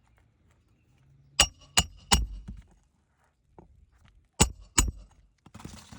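Hammer blows on roofing nails: three quick strikes, a pause, then two more, each with a short metallic ring. A brief scraping rustle of shingle follows near the end.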